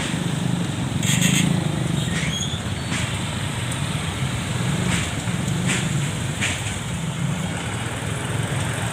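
Road traffic: vehicle engines running with a steady rumble, with a few short sharp noises over it, the loudest about a second in.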